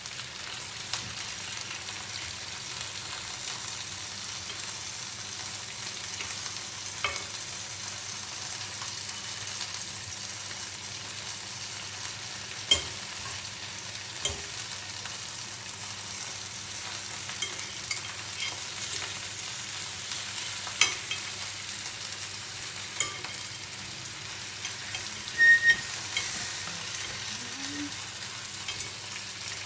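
Chicken legs frying in a wok in their own rendered fat, no oil added, with a steady sizzle. Scattered sharp clicks and knocks sound over it, the loudest one about 25 seconds in.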